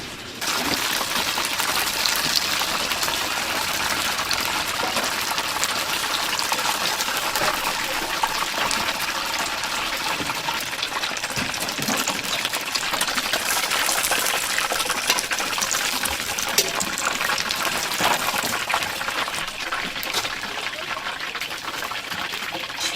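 Chicken deep-frying in hot oil: a loud, steady sizzle with dense crackling that starts suddenly about half a second in.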